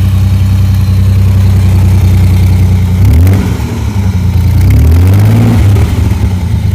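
Car engine running close by at a steady idle, revved up twice about three and five seconds in.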